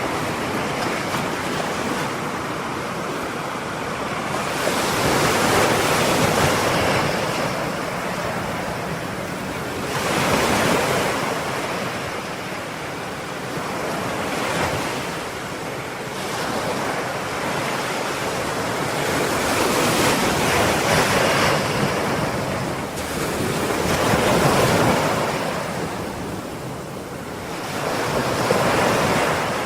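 Ocean waves breaking and washing onto the shore: a steady rush of surf that swells every four to five seconds, six times in all.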